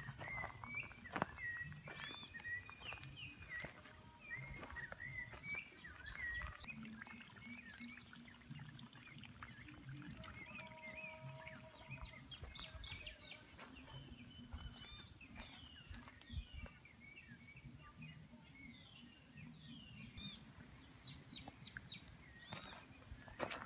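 Several birds chirping and whistling in quick, repeated short calls, over a steady low rumble.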